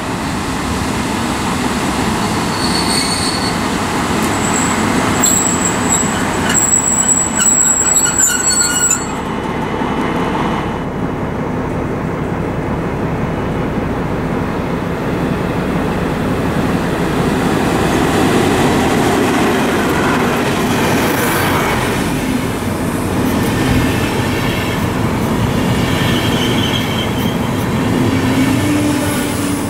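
Class 218 diesel-hydraulic locomotives and Intercity coaches on the move: high-pitched wheel squeal a few seconds in and again for several seconds. Then a pair of 218s draws an Intercity train through a station, engines running with a steady low drone and coaches rolling past, with a short squeal near the end.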